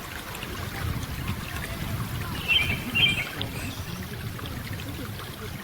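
A small bird gives two short, high chirping calls about halfway through, over the steady rush of running water.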